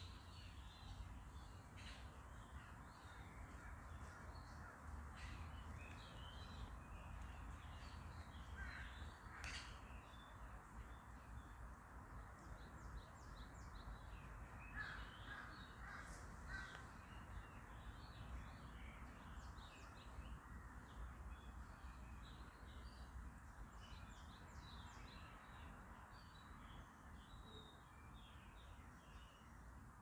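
Faint chorus of wild birds chirping and calling throughout, with a short run of four lower calls about halfway through, over a steady low rumble.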